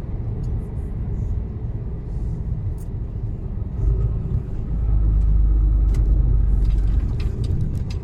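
Mercedes-Benz Actros truck's diesel engine rumbling from inside the cab while driving, swelling louder for about two seconds from around five seconds in.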